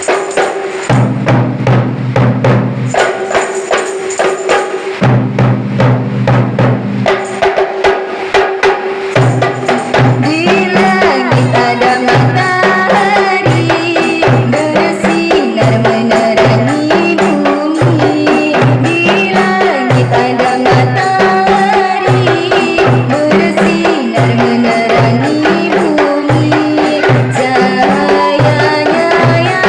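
Qasidah music: tambourine and frame drums playing a steady repeating rhythm, with a melodic line coming in about ten seconds in.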